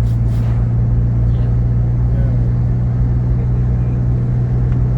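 Steady low drone of a Jeep Grand Cherokee heard from inside its cabin: engine and road hum holding an even pitch without rising or falling.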